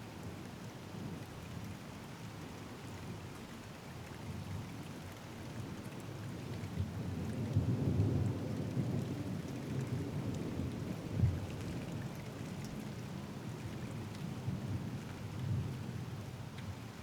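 Steady rain with a long roll of thunder. The rumble swells about a third of the way in and is loudest near the middle, with a sharper clap a few seconds later, then rumbles on more quietly.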